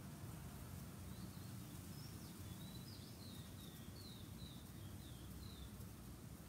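Faint bird calling in the background: a series of short, falling chirps, about two a second, starting about a second in, over a low, steady background hum.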